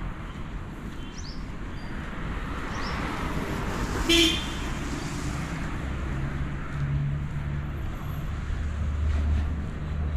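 City road traffic running past, a steady low rumble of engines and tyres, with a single short vehicle horn beep about four seconds in. A vehicle's engine hum grows louder in the second half as it passes.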